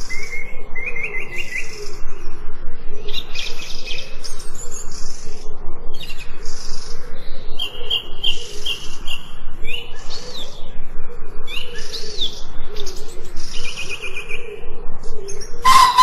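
Mixed wild birdsong: several birds chirping, with quick trills and short rising whistles, over a low wavering call that runs underneath. A sudden sharp burst comes right at the end.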